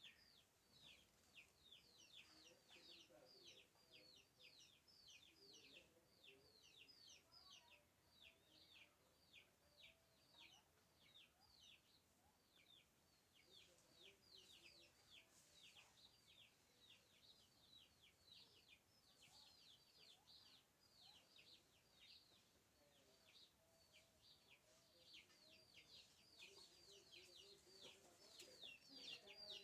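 Faint, continuous high chirping in quick falling notes, several a second, with occasional low clucking from chickens.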